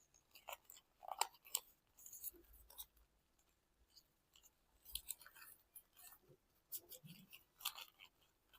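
Origami paper being folded in half and creased, with faint, short, scattered crinkles and rustles.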